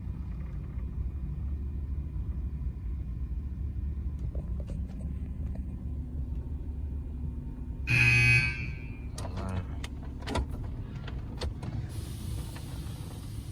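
Truck engine idling, heard from inside the cab, with a brief loud squeal about eight seconds in, a few clicks after it, and a hiss starting near the end.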